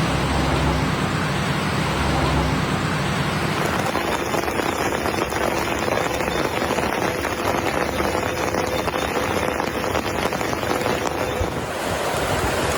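Steady rushing of water, changing in character about four seconds in and again near the end.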